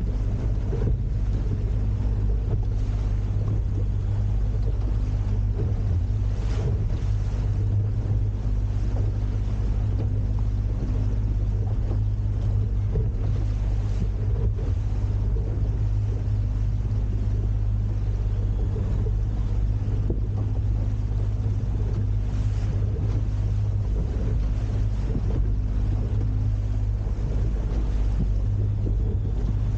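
Boat engine running at a steady speed, with a wash of wind and water noise over it.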